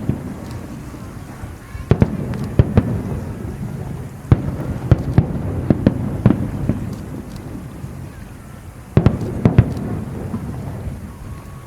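Aerial fireworks bursting: many sharp bangs over a low rolling rumble, with louder volleys starting about two, four and nine seconds in.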